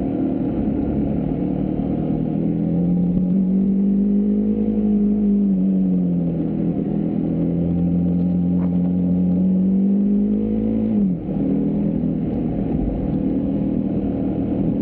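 Husqvarna Svartpilen 401's single-cylinder engine running at a steady pull on the road, its note easing up, dropping about six seconds in and falling sharply about eleven seconds in before settling again, over low wind rumble.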